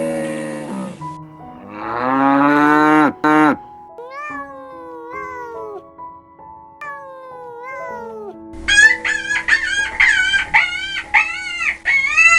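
Farm animal calls over background music: a low, rising moo-like call about two seconds in, then a few falling calls, then a quick run of short, arched calls near the end.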